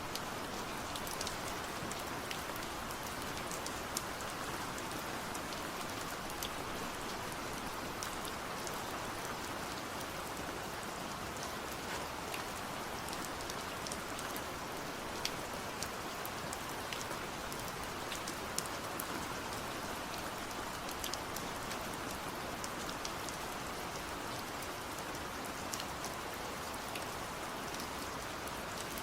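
Steady rain falling on a surface, an even hiss with scattered sharper drop hits throughout.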